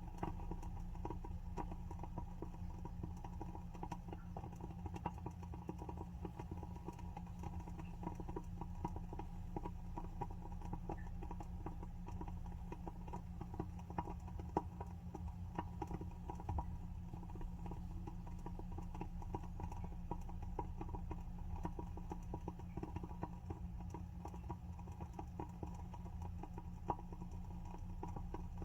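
WoodWick candle's wooden wick crackling as it burns: a dense, irregular run of small ticks and pops over a steady low hum.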